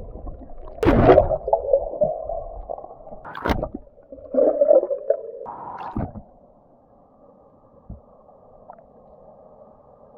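Muffled splashing and gurgling of stream water as someone wades in, with loud sloshes about a second in and again from about four to six seconds. After that comes a quieter, steady muffled rush of flowing water.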